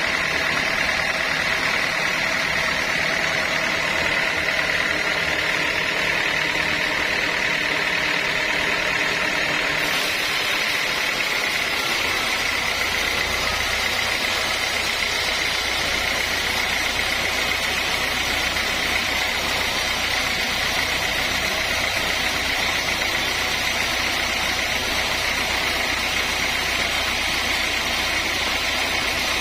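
Sawmill machinery running steadily, with a steady high whine; about a third of the way in its sound changes, taking on a deeper low rumble and a broader hiss.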